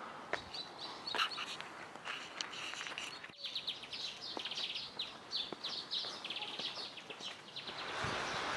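Small birds chirping and singing, with repeated rapid rattling trills through the middle, over a few sharp clicks early on. A steady rushing noise comes up near the end.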